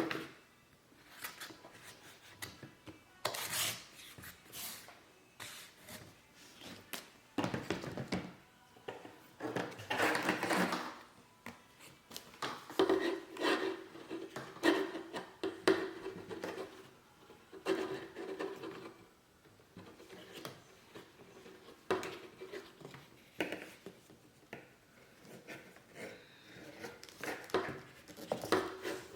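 Irregular rubbing, scraping and knocking of packaging and plastic toy parts being handled while a stomp rocket set is unpacked.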